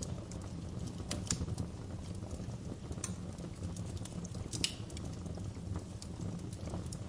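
Fire in a fireplace crackling: scattered sharp pops and snaps over a low steady rumble, with a few louder pops about a second in, around three seconds and midway through.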